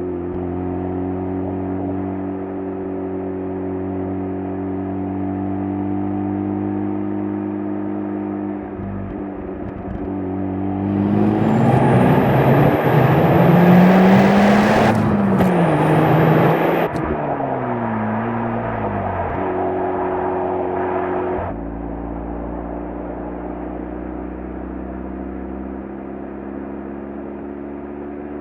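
Exhaust of a Mazda RX-7 FD3S's twin-turbo 13B rotary engine through its stock muffler, heard right at the tailpipe. It runs steadily, then about eleven seconds in comes a full-throttle acceleration that grows much louder, the pitch rising and bending with a gear change. It eases off a few seconds later and drops back to a steady run about twenty seconds in.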